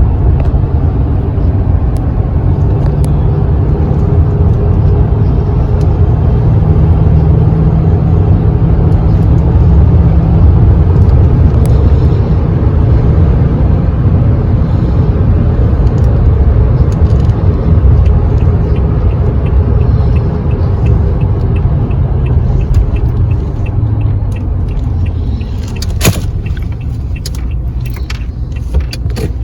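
A truck driving on the road, heard from inside the cab: a loud, steady low rumble of engine and road noise. Light regular ticks come in during the second half, with a sharp click near the end.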